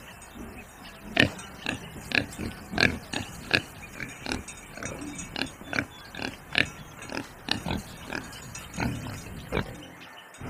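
Pigs grunting: a run of short grunts, about two a second, that stops shortly before the end.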